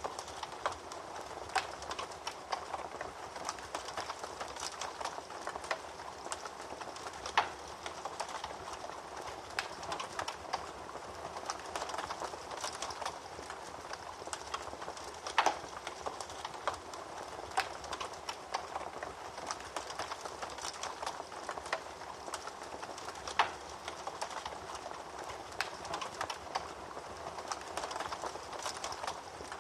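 Wood fire in a fireplace crackling, with a steady hiss and irregular sharp pops, a few of them much louder than the rest.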